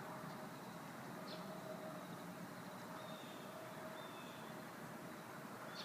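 Quiet outdoor background with a faint steady hum and a few faint, short, high bird chirps.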